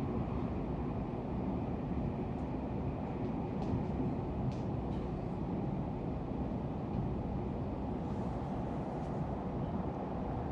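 Steady low rumble of a double-deck electric multiple-unit train running at speed, heard from inside the carriage: wheels on rails and running gear, with a few faint clicks.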